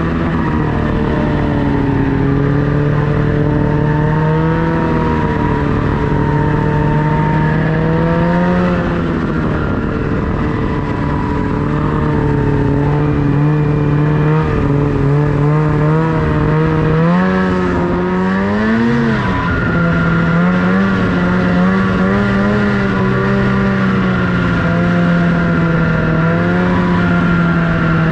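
Snowmobile engine running under changing throttle, its pitch rising and falling with a deeper dip and climb past the middle.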